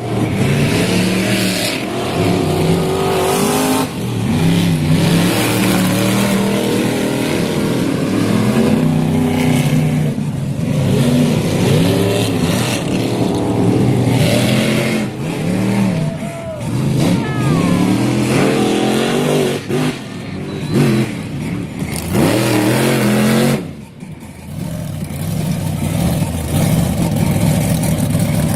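Monster truck engines revving loudly, the pitch climbing and falling over and over, with a short lull about 24 seconds in.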